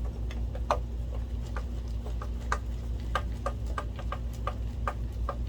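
Screwdriver driving a screw into a projector's metal bracket: a series of light, irregular clicks, a few a second.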